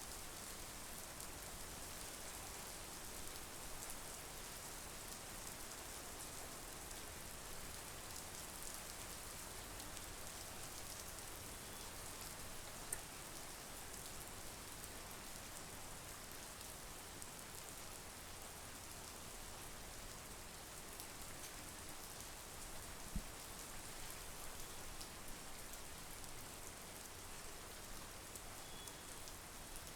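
Steady monsoon rain falling, with fine pattering of drops and an occasional louder single drop.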